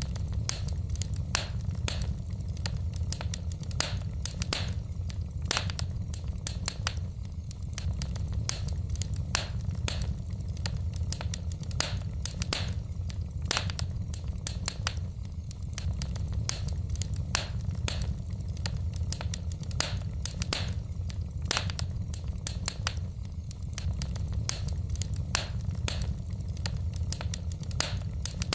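Wood fire crackling in a fireplace: logs snapping and popping at an irregular rate of several sharp cracks a second over a steady low rumble of the flames.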